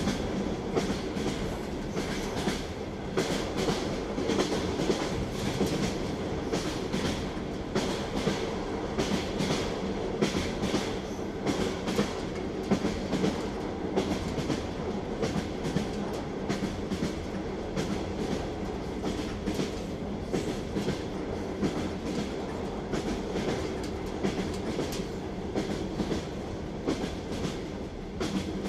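Train wheels clattering rhythmically over rail joints while the carriage runs at a steady speed, over a continuous rolling rumble.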